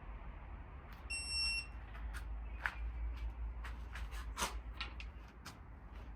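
A single high electronic beep, under a second long, about a second in, among scattered light clicks and taps over a low steady hum.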